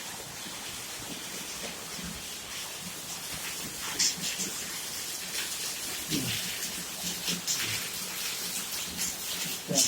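Steady rain falling, an even hiss with many small drop hits, the sharpest about four seconds in and near the end.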